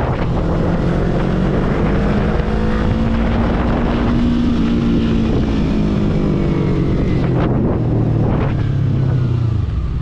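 Yamaha YZF-R3 sport motorcycle engine under way at speed, its note climbing for a few seconds, holding, then dropping sharply about seven and a half seconds in and again near the end, over a steady rush of wind.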